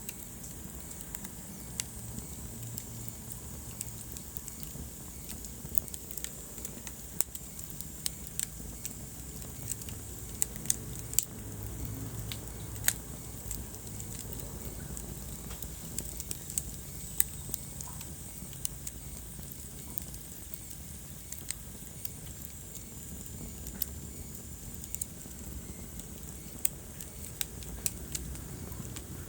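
Wood fire burning in a fireplace: irregular sharp crackles and pops, some louder than others, over a low steady rumble of the flames.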